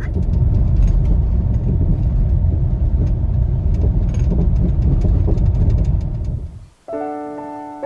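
A loud low rumble that fades out about six and a half seconds in, followed by piano music starting near the end.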